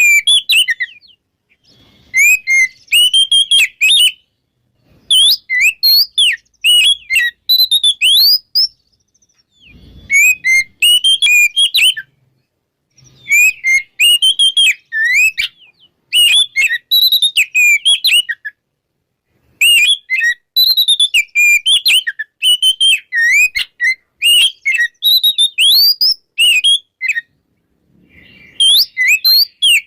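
Oriental magpie-robin singing loud, full song: rapid strings of varied whistled notes that swoop up and down, delivered in bursts of a couple of seconds with short pauses between them.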